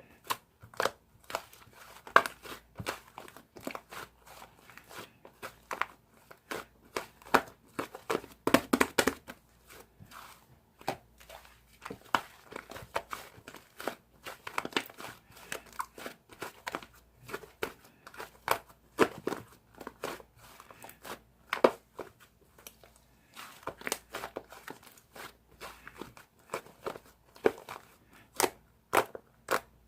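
Slime being squished, poked and stretched by hand, giving dense, irregular crackling clicks and pops.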